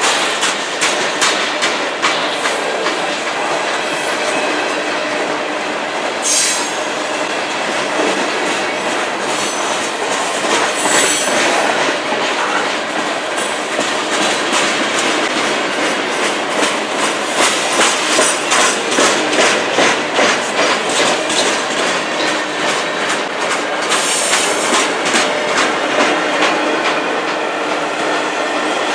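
Freight train cars rolling past, their wheels clacking over the rail joints in a steady rhythm. A few brief high-pitched wheel squeals cut in along the way.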